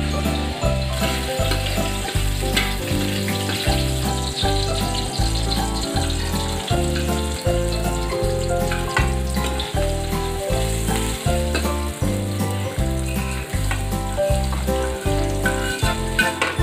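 Garlic and diced vegetables and hotdog sizzling in hot oil in an aluminium wok, as the vegetables are tipped in. Background music with a steady bass beat runs loudest underneath.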